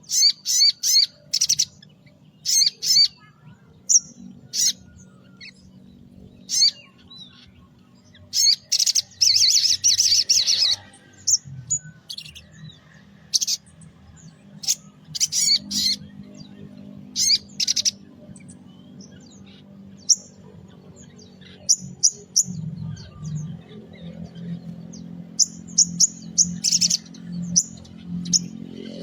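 A sogon songbird singing in quick bursts of high chirps and trills, some phrases running on for a second or two, with short pauses between them and a faint low hum underneath.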